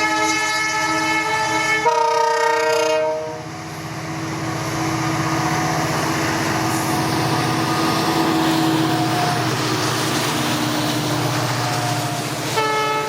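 Air horn of WDG4 (EMD GT46MAC) diesel locomotives sounding a long chord that drops to a lower note about two seconds in and stops about a second later. Then comes the steady low rumble of the locomotives' two-stroke EMD 710 diesel engines and the passing freight train. A short horn blast begins near the end.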